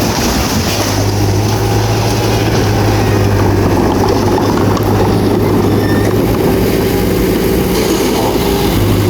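Bulldozer's diesel engine running steadily at working revs, a constant low hum under a dense mechanical noise.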